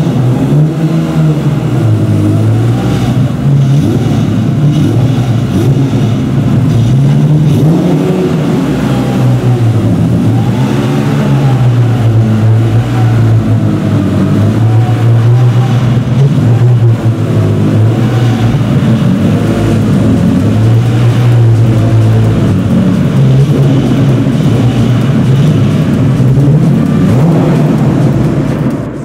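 BMW touring race car's engine running loud, its revs climbing and dropping over and over.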